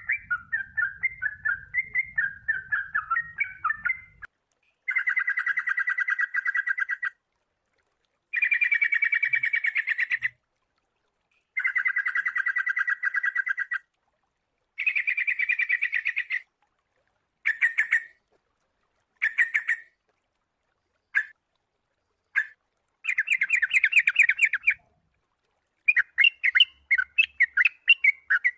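Sooty-headed bulbul (kutilang) song: a run of quick chattering notes, then a series of rapid trilled bursts, each about two seconds long, with sudden silent gaps between them. The bursts grow shorter in the middle, and the chatter returns near the end.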